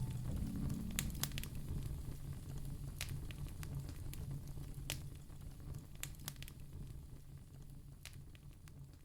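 Wood fire crackling in a fireplace, with sharp scattered pops over a low steady rumble. The whole sound fades down gradually.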